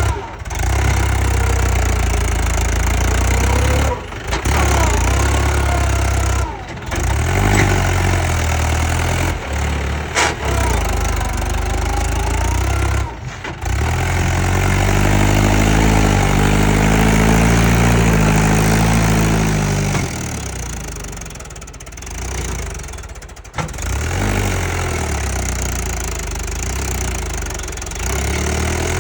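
Mahindra 475 tractor's diesel engine running hard, its note climbing and then falling back between about 14 and 20 seconds. The sound breaks off abruptly several times.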